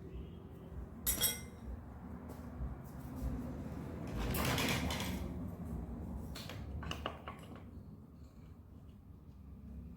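Metal tools and parts clinking and knocking, with one sharp ringing clink about a second in and a short rush of hiss around the middle.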